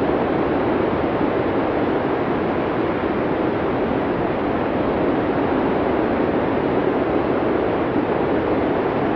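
Steady, muffled rushing of blizzard wind, an even noise without distinct gusts, deep and dull rather than hissing.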